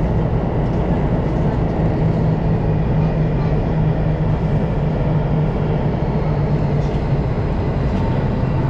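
Electric commuter train running, heard from inside the front car: a steady rumble with a constant low hum.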